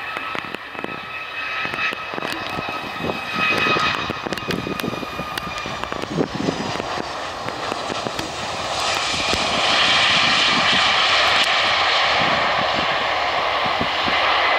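Jet airliner engines: a steady high whine over a rush of engine noise, which swells into a louder, fuller roar about nine seconds in.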